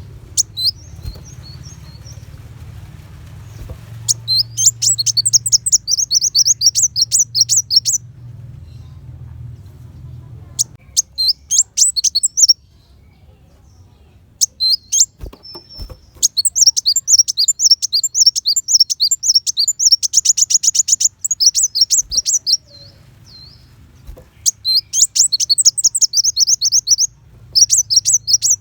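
Kolibri wulung sunbird singing rapid-fire runs of sharp, high chirping notes, the "tembakan" shots prized in song-training recordings. The runs last from about one to five seconds, with short pauses between them. A faint low hum runs underneath.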